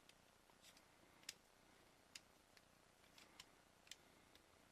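Faint, scattered clicks of a plastic Transformers Hailstorm figure's parts being handled and pressed into place, about half a dozen light ticks.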